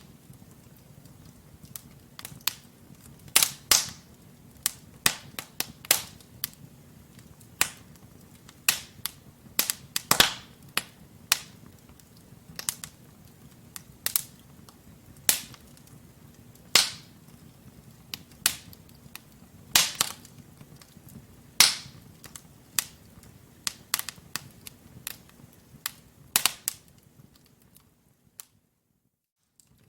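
Logs burning in a wood fireplace, crackling with irregular sharp pops and snaps over a low steady rumble. The sound drops out to silence for about two seconds near the end.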